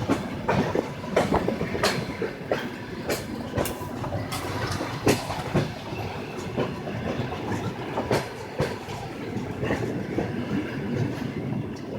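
Train wheels clattering over rail joints: a steady rolling rumble with a regular run of sharp clicks, about one to two a second, heard from aboard a moving train.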